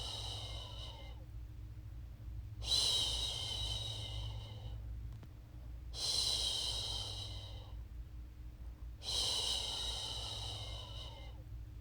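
A woman's voice shushing a baby to sleep: a long "shhh" about every three seconds, each one starting sharply and fading away over about two seconds, three times over a steady low hum.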